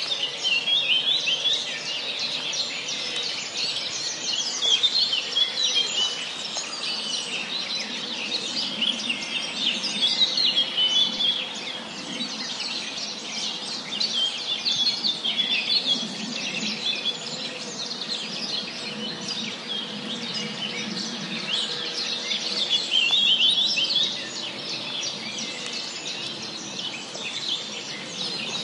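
Many birds chirping and singing together in woodland, overlapping chirps and trills over a steady background hum, with louder bursts of song every few seconds.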